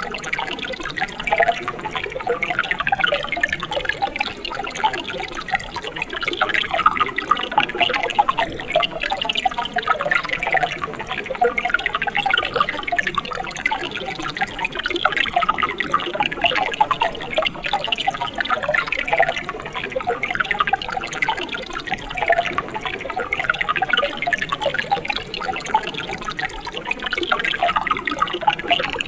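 Mountain stream water splashing and burbling over rocks in a steady, continuous flow, full of small bubbling and trickling detail.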